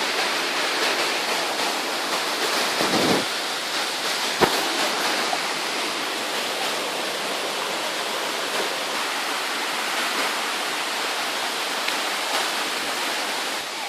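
Waterfall rushing in a steady roar of falling water, with a brief low thump about three seconds in and a sharp click a second later.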